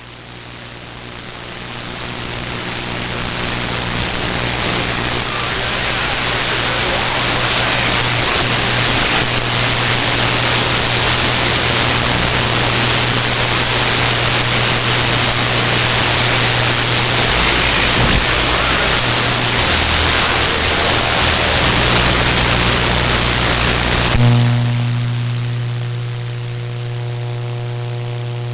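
CB radio receiver hiss and static over a steady low hum, swelling in the first few seconds. About 24 seconds in the static cuts out, leaving only a steady buzzing hum with several tones and no voice.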